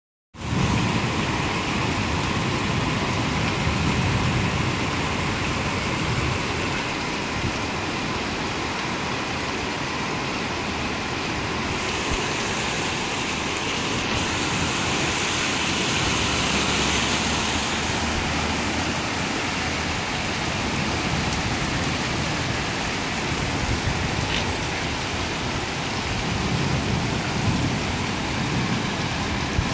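Heavy rain pouring steadily onto a street, a continuous even hiss of falling water that turns brighter for a few seconds midway.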